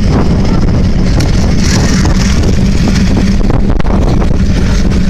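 Car engine running loudly and steadily, with wind buffeting the microphone.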